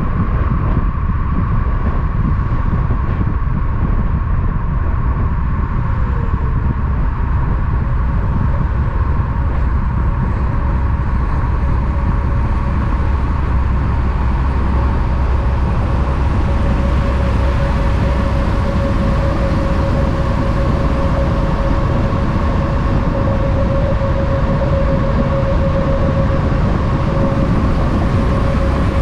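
Steady, loud vehicle noise: a constant low rumble with a steady hum on top, holding even throughout with no rise and fall of a single vehicle passing.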